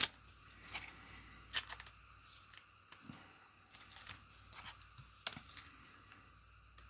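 Faint, irregular light clicks and scratches of trading cards being handled and slid into plastic top loaders.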